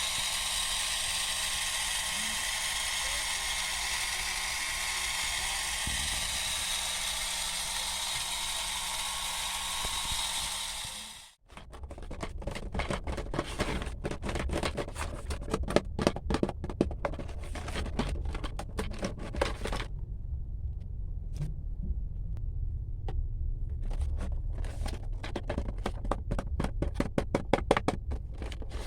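A mini vacuum cleaner's small motor running with a steady whirring hiss, cutting off abruptly about eleven seconds in. It is followed by rapid, irregular clicking and rattling over a low rumble, with a pause partway through.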